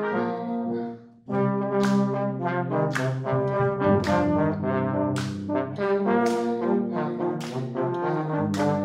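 Brass ensemble playing several held notes together. The band cuts off about a second in, then comes back in with strongly accented chords.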